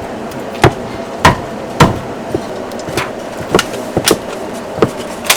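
Cleaver chopping meat on a cutting board: a series of sharp chops, roughly two a second and uneven in strength.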